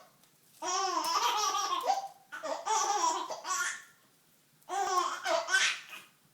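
A baby laughing and babbling in three high-pitched stretches, each a second or so long, with short quiet pauses between.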